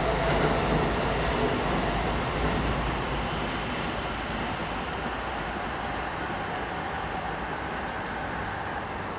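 Electric commuter train running along the tracks and pulling away, its rumble and wheel noise slowly fading.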